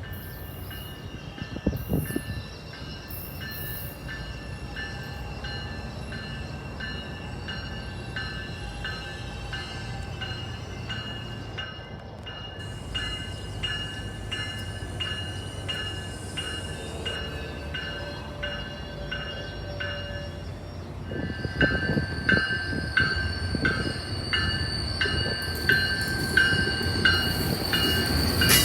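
CSX freight train passing: a steady low rumble with a high ringing tone that repeats about one and a half times a second, all growing louder over the last third.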